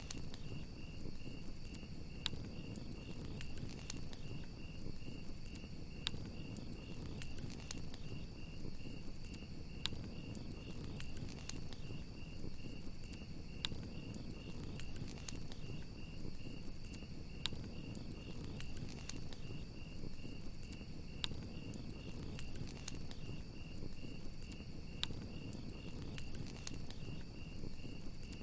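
Campfire crackling, with scattered sharp pops over a low steady rumble of burning wood, and crickets chirping in a steady pulsing trill.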